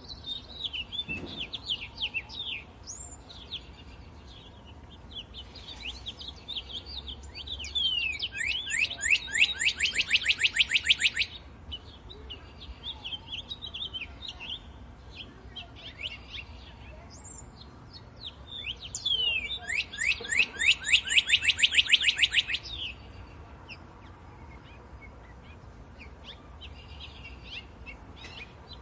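Songbirds chirping in a wood. Two loud, fast trilled songs of rapid repeated falling notes stand out, one about 8 seconds in and another about 20 seconds in, each lasting about three seconds.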